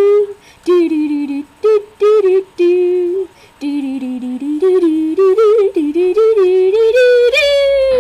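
A woman's voice singing a melody unaccompanied, in short phrases with held, wavering notes, rising to a long high note near the end.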